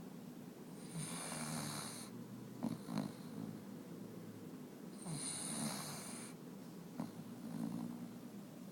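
Labrador retriever snoring: a low rattle runs through its breathing, with two long breaths about four seconds apart that carry a hiss of air, and a few soft clicks between them.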